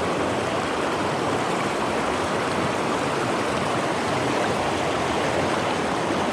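Creek water rushing steadily, a constant even wash with no breaks.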